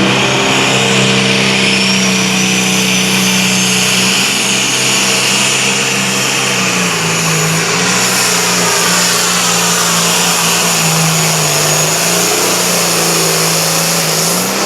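Competition pulling tractor's engine running hard at full throttle under the load of the weight sled, its note sagging twice in the second half as the engine bogs, then picking up near the end. A high whine runs above the engine note.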